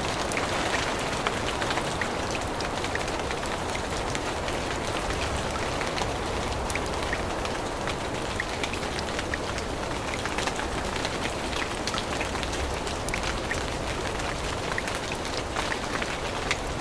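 Steady rain falling on forest leaves, with many close drops ticking sharply throughout.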